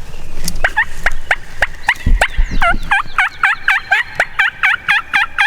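Turkey yelping: a long run of hooked yelps that starts slowly and speeds up to about five a second, plausibly a hunter running a turkey call. A short low thump about two seconds in.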